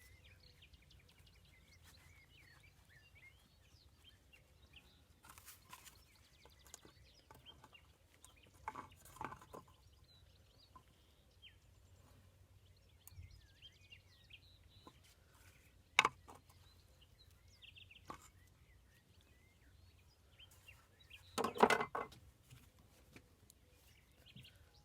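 A few sharp knocks and clatters of hard material, with the loudest cluster of them about 21 seconds in, over faint birds chirping.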